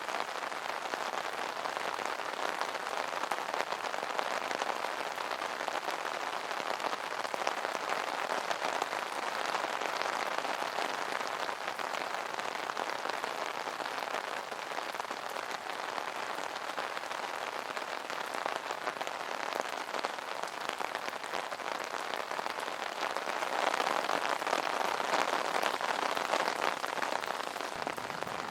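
Rain pattering on an umbrella canopy, a steady dense spatter of drops that swells slightly a little before the end.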